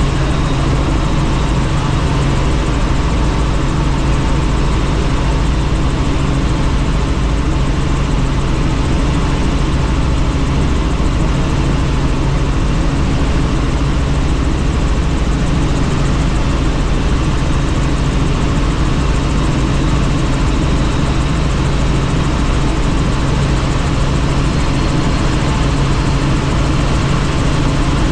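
Helicopter in flight heard from inside the cabin with the doors off: a steady, unbroken drone of rotor and turbine under a rush of wind.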